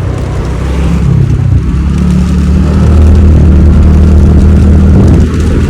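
TVS Ntorq 125 scooter being ridden, its single-cylinder engine running with a loud low rumble. The rumble swells about two seconds in, holds steady, and dips briefly near the end.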